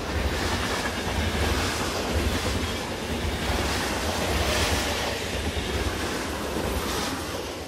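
A coal train's caboose rolling past close by: a steady low rumble and rattle of steel wheels on the rails, starting to fade near the end.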